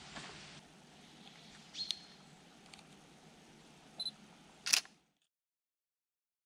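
Sony ZV-1 camera beeping twice as focus locks, a short high pip each time, then a sharp shutter click near the end.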